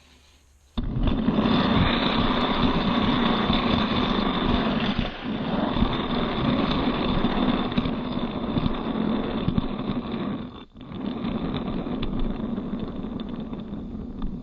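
Loud, steady engine-like running noise that starts abruptly about a second in and keeps going, with a short drop near the end.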